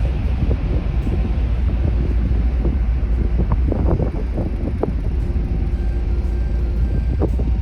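Steady low rumble of a car ferry under way, with wind buffeting the microphone.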